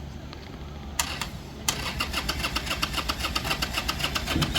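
Motorcycle engine cranking on its electric starter: a click about a second in, then a rapid, even chugging of about six strokes a second. The bike has just run out of gas.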